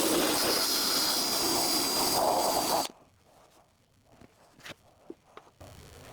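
Power tool running with a steady high whine over a loud rushing noise, cutting off abruptly about three seconds in; then near quiet with a few light clicks.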